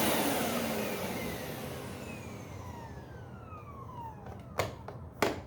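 Hoover SpinScrub50 carpet cleaner's suction motor switched off after a dry vacuuming pass, winding down with a falling whine that fades away over about three seconds. Two sharp clicks come near the end.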